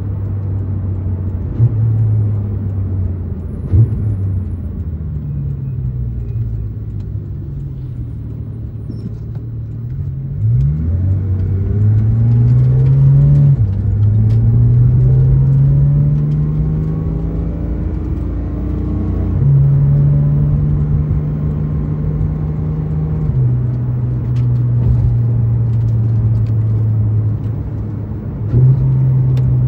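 Porsche 991.2 911 GT3 RS's 4.0-litre naturally aspirated flat-six heard from inside the cabin, first falling in pitch as the car slows, then climbing steeply under acceleration from about ten seconds in. Its note steps sharply up and down at quick PDK gear changes, with steady stretches of cruising between. Two brief knocks come in the first few seconds.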